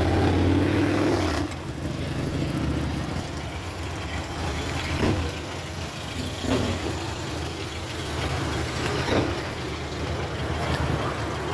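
A vehicle's engine running, with a low steady rumble that is louder for the first second and a half and then settles lower.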